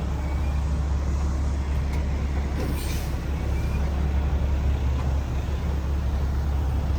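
Heavy truck's diesel engine running steadily, a constant low drone.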